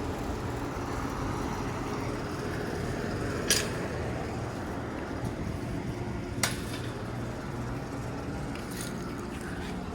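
Outdoor central air conditioner condenser unit running steadily: a low compressor hum under the rushing of its fan. Two sharp clicks come about three seconds apart.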